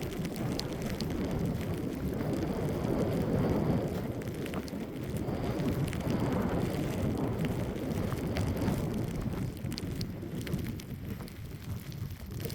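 Strong mountain wind gusting and rushing over the microphone, surging and easing every couple of seconds, with a few faint ticks scattered through it.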